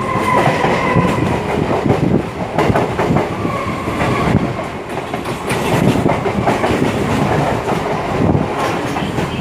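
Train rolling through a station, its wheels knocking irregularly over rail joints and points with a steady rumble. A brief high tone sounds at the start and again about three and a half seconds in.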